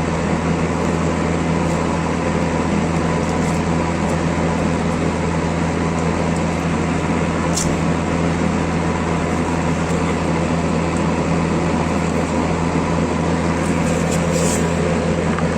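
A power tool's electric motor running steadily under constant load, with a low hum and a few faint ticks.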